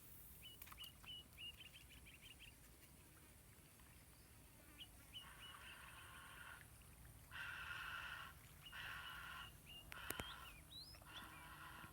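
Birds calling: a quick run of short high chirps, then a series of harsh, buzzy calls about a second long each, with a few rising whistles near the end.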